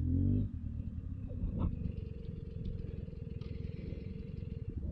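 Beta 300 RR's 300 cc two-stroke single-cylinder engine idling, a rapid run of low pops, after a steadier hum drops away about half a second in.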